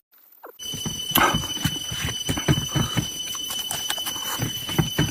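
Wet chewing and mouth-smacking from close up, in quick, irregular smacks. A steady high whine runs underneath. The sound starts after a moment of silence at the beginning.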